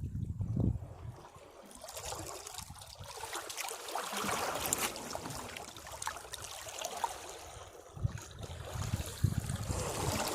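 Sea waves breaking against rocks: a low rumble as a wave hits in the first second and again from about eight seconds in, with water hissing and trickling back off the rocks in between.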